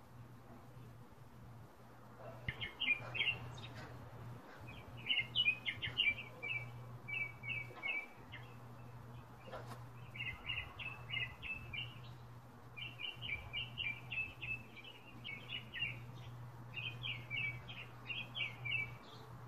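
A bird chirping outdoors: quick runs of chirps in short phrases, repeated every second or two, over a steady low hum.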